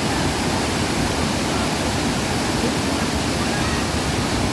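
Steady rush of a waterfall, water pouring and splashing in a continuous even roar.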